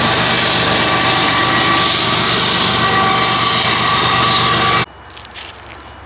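A train passing close by, a loud steady rolling roar with a few faint steady tones running through it. It cuts off suddenly about five seconds in, leaving a much quieter background with a few light clicks.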